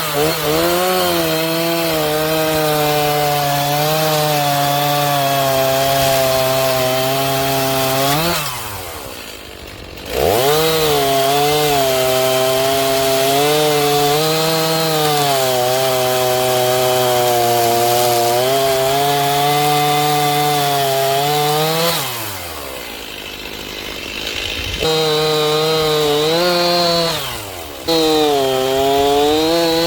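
Two-stroke chainsaw running at full throttle, cutting through logs with a freshly sharpened chain whose rakers may have been filed down too far. Three times the engine falls back towards idle and then revs up again into the next cut, the last time only briefly near the end.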